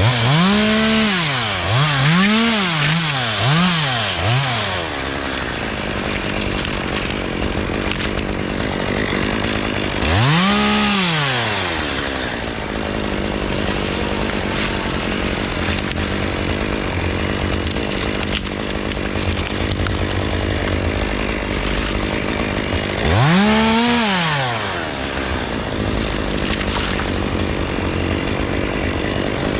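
Chainsaw engine idling, its throttle blipped up and back down several times in quick succession at first, then twice more later, once in each burst.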